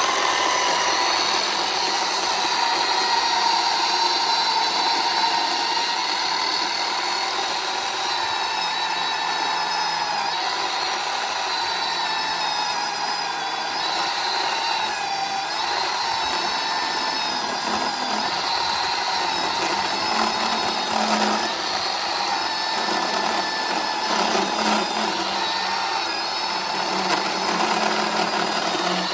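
Battery-powered Bauer chainsaw with a 10-inch bar cutting through a pin oak log in one long, continuous cut. The motor and chain give a steady whine whose pitch wavers slightly now and then as the load changes.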